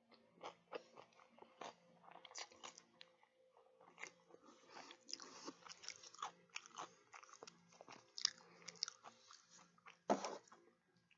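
Close-miked mouth sounds of a person eating: irregular chewing with small wet clicks and smacks, and one louder mouth noise about ten seconds in.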